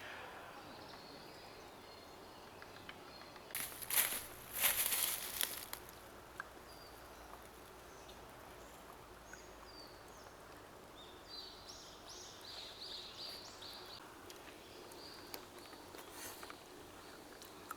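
Quiet forest ambience with small birds chirping, a run of short high chirps in the middle. About four seconds in, a loud rustling noise lasts roughly two seconds.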